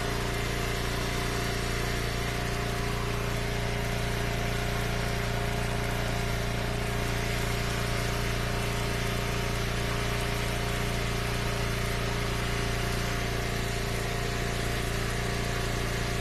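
Gasoline engine idling steadily at an even, unchanging speed.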